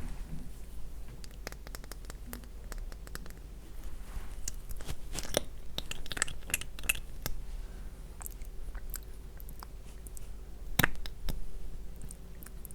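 Close-miked ASMR mouth sounds: wet, sticky clicks and crackles that come thickest around the middle, with one sharper, louder click near the end.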